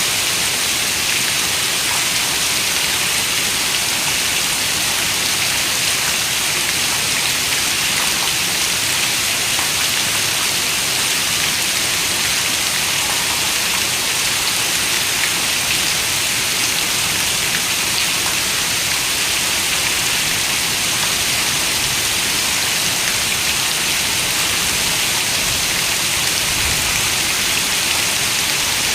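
Steady rain falling: an even, unbroken hiss, strongest in the high end, with faint scattered drop ticks.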